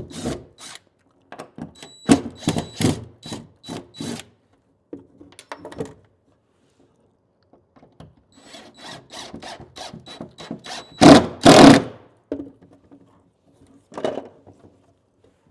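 Hand work on drywall and an old-work outlet box: a string of sharp knocks, then a quicker run of scraping strokes ending in two loud hits a little after halfway, and one last knock near the end.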